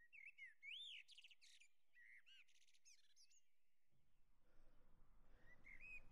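Faint bird chirping: a run of short, quick, rising-and-falling high calls, with a few more near the end. A low hiss of background noise comes in about four seconds in.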